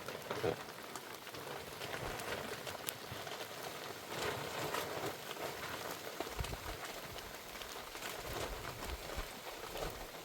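Heavy rain falling steadily, with many drops pattering on a surface.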